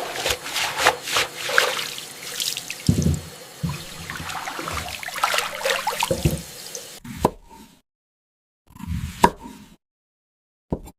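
Water splashing and trickling with many irregular plops for about seven seconds, then a few short, separate splashes with silence between them.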